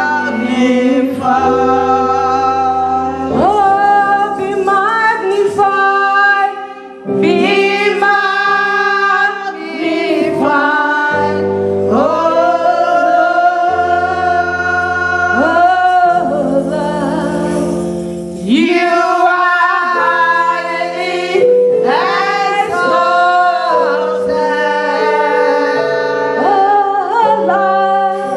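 Gospel worship music: a choir and lead singer singing over keyboard accompaniment, with long sung phrases and held chords.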